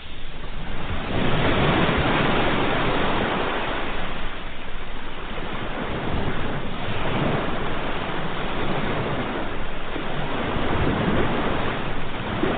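Ocean surf: waves breaking and washing in, a continuous rushing that swells and eases every few seconds.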